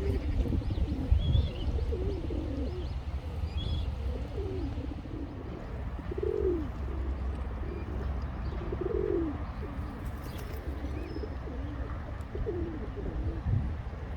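A pigeon cooing, low notes repeated every couple of seconds, with a few high chirps from small birds early on and a steady low rumble underneath.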